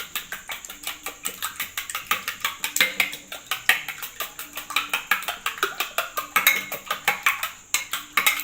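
Eggs being beaten with cutlery in a bowl: a rapid, even clicking of the utensil against the bowl.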